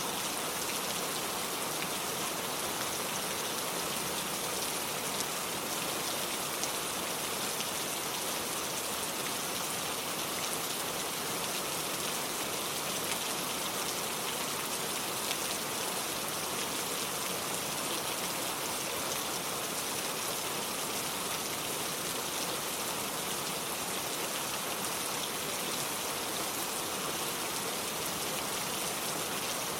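Steady rain falling, a continuous even hiss with many fine drop patters.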